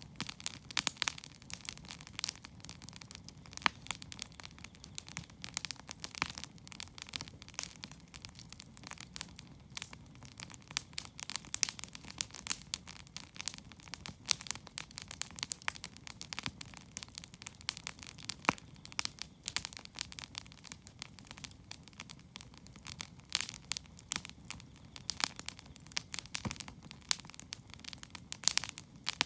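Wood campfire crackling: frequent irregular sharp pops and snaps from the burning wood, over a faint steady low rumble.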